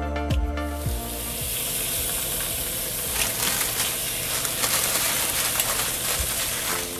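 Food frying in a hot pan: a steady sizzle with many small crackles, beginning about a second in.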